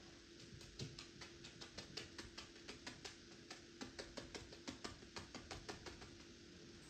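Quick light taps of a paintbrush dabbing paint onto canvas, about four or five a second, stopping near the end, over a faint steady hum.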